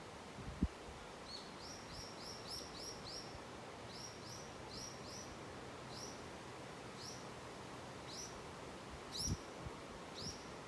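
A small wild bird giving a series of short, rising chirps, six in quick succession and then about one a second, over a steady hiss of wind and running water. Two short low thumps stand out, one near the start and one near the end.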